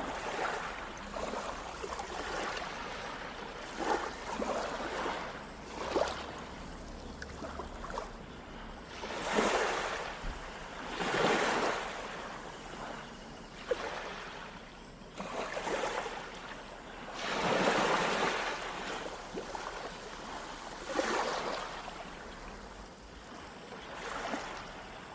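Small waves breaking and washing up on a beach, each one surging and then fading, one every two to four seconds.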